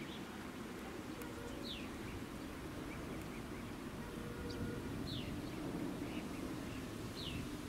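A bird repeating a short, high, downward-sliding call every two to three seconds, with fainter chirps in between, over a steady low background rumble.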